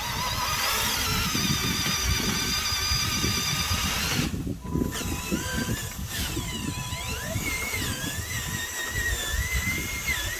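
A toy RC dump truck's small electric motor and gears whining at a high pitch. The whine breaks off briefly about four and a half seconds in, then comes back wavering up and down in pitch.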